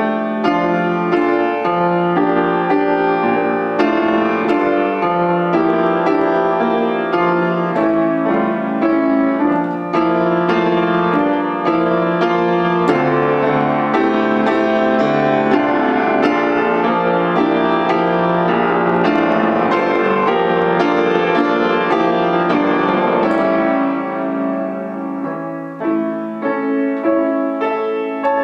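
Piano playing a busy passage of many quick notes, growing thinner and softer over the last few seconds.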